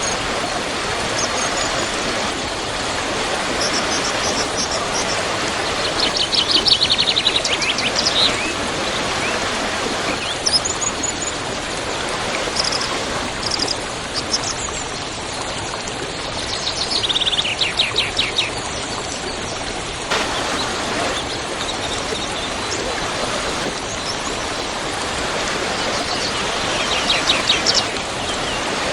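Steady rush of a waterfall, with small birds singing over it: a rapid falling trill about every ten seconds, and short high chirps in between.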